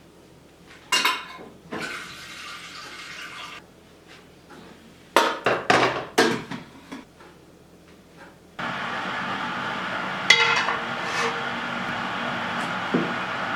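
Dishes and utensils clinking and clattering in a kitchen: a sharp clink about a second in and a quick run of knocks around the middle. Near the end a steady rushing noise starts suddenly and keeps going.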